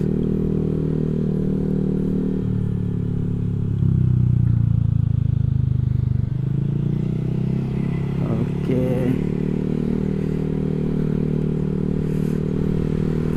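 Motorcycle engine running while riding, its pitch stepping up and getting louder about four seconds in, then dropping back a couple of seconds later.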